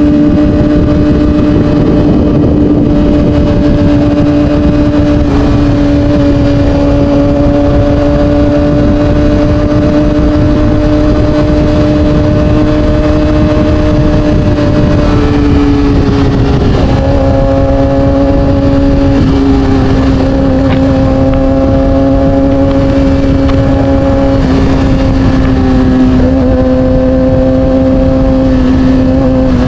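Yamaha R6 inline-four engine under way at fairly steady revs, with wind noise on the camera microphone. The engine note dips slightly about halfway through and drops again near the end.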